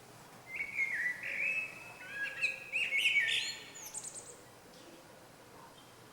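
A small songbird singing one quick, varied phrase of chirps and short trills, starting about half a second in and lasting about three and a half seconds.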